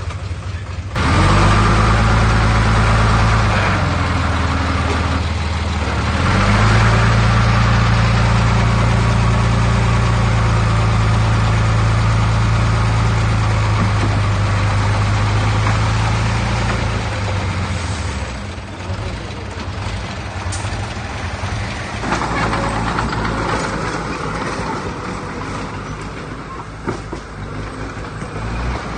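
Heavy earthmoving diesel engine running hard under load, its steady drone rising about a second in and again near six seconds, then easing off after about seventeen seconds before a rougher, noisier stretch.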